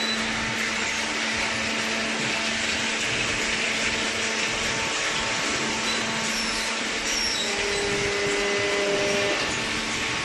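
Hydraulic cardboard baling press running: a steady motor-and-pump drone with a constant low hum.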